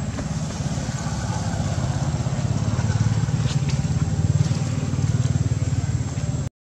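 Motor vehicle engine running steadily, a low drone that grows a little louder after the first second and then holds.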